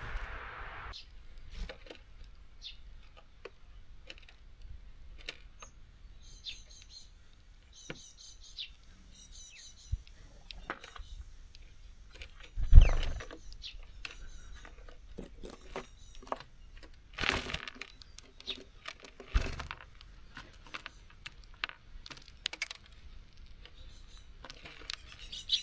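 Small songbirds at a seed feeder: scattered light taps and clicks of birds landing and pecking at seeds, with a run of short high chirps between about six and nine seconds in. A few louder knocks stand out, the loudest about thirteen seconds in.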